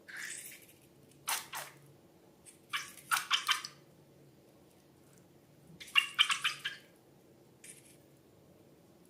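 Slime being squeezed and worked, giving short bursts of wet, sticky clicking and squelching, about five bursts with quiet gaps between them.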